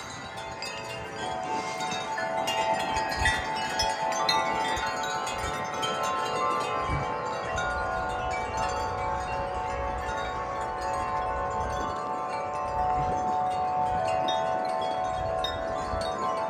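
Several large tuned wind chimes ringing in gusty wind: many overlapping, sustained tones struck again and again by the swinging clappers. A few short low rumbles of wind on the microphone sit underneath.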